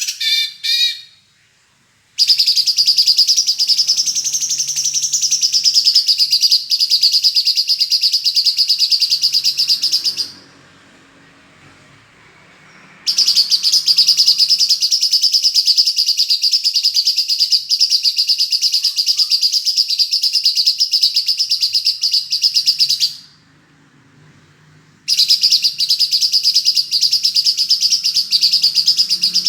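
Songbird singing long bursts of very rapid high trilling, each running many seconds with short pauses between: a few short chirps open, then two long bursts, and a shorter one near the end. The dense, fast-fire delivery is the 'tembakan' style used in masteran recordings to train caged songbirds.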